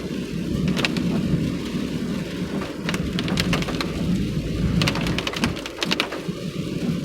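Rain hitting a moving car, heard as irregular sharp taps over the steady low drone of the car driving on a wet road.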